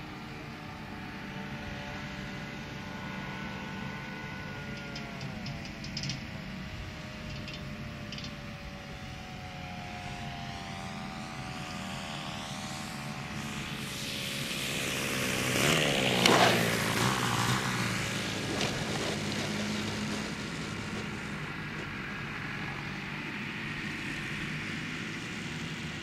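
Radio-controlled Seagull Tucano model airplane flying on a newly changed propeller, its engine and prop giving a steady whine that slides down in pitch as it moves away. About sixteen seconds in it makes a loud close pass, the pitch dropping sharply as it goes by.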